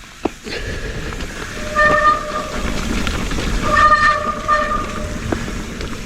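Mountain bike's wet disc brakes honking in short, pitched bursts as the rider brakes, about three times, over steady tyre and trail rumble while riding down a muddy trail.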